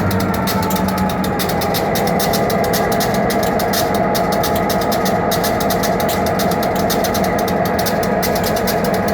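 Diesel freight locomotive running as the train goes by: a steady engine drone with a held whine over it and a fast, even clatter.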